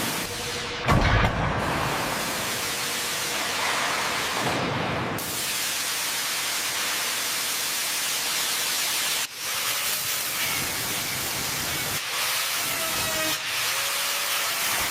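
A steady, even hiss, with a short low thump about a second in.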